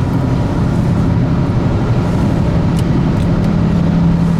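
Car driving along a road, heard from inside the cabin: steady tyre and road noise with a steady low engine drone.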